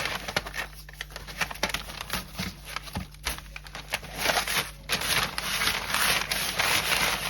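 Gloved hands rubbing dry barbecue rub into the skin of a raw whole chicken: a dense rustle of small crackles and crinkles, louder from about four seconds in.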